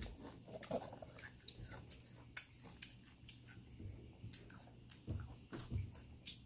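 Eating sounds: faint, irregular wet clicks and smacks of chewing, a little stronger around five to six seconds in.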